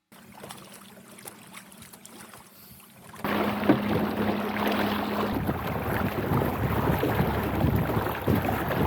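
Small boat under way on a lake: a steady motor hum under the rush of water and wind noise. Everything gets louder about three seconds in, and the hum stops about five seconds in while the water and wind noise goes on.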